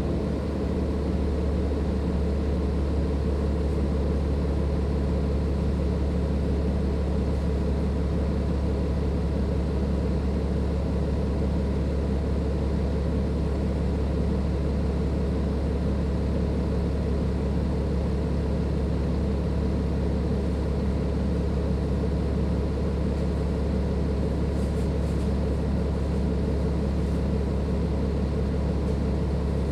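Cummins ISLe inline-six diesel engine of a Dennis Enviro 500 double-decker bus running at a steady speed, a deep even drone with no revving or gear changes.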